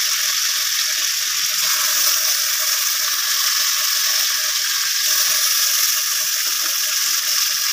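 Yogurt-marinated chicken pieces frying in melted butter in a pot: a steady sizzle from the wet marinade in the hot fat.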